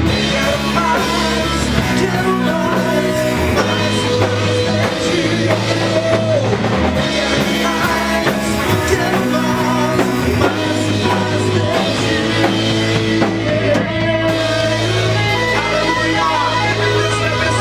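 Live worship band playing a song: drum kit, guitars and bass guitar, with singing at times.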